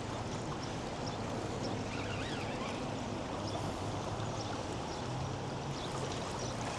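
Steady rush of fast-flowing floodwater in a high river.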